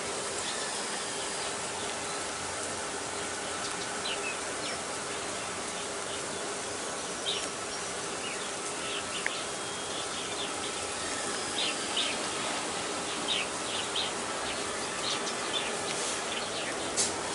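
Small birds chirping in short, scattered calls over a steady outdoor hiss with a faint steady hum. The chirps come more often from the middle on.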